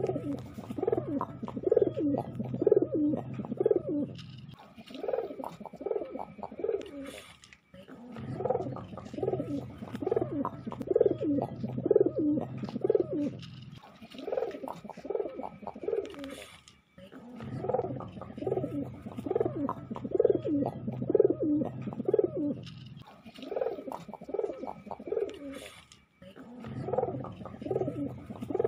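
Domestic pigeon cooing: bouts of rapid, rolling coos lasting several seconds, separated by pauses of about three seconds.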